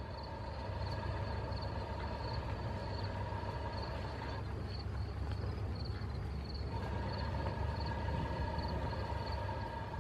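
Low, steady rumble of an approaching BNSF freight train's diesel locomotives, still some distance off, growing a little louder early on. A faint high chirp repeats about twice a second over it.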